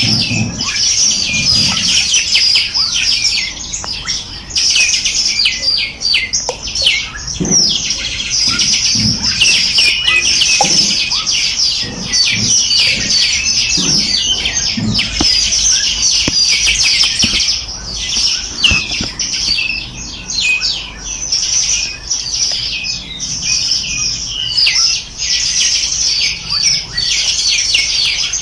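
Dense chorus of small songbirds, many rapid high chirps and trills overlapping without pause.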